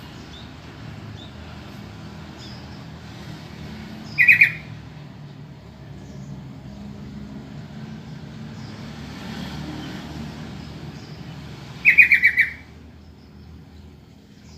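Yellow-vented bulbul (trucukan) calling: two short, quick chattering phrases about eight seconds apart, over a faint steady low rumble.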